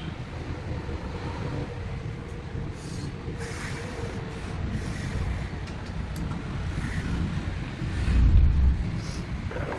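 Steady low mechanical rumble with scattered faint knocks, swelling louder for about a second near the end.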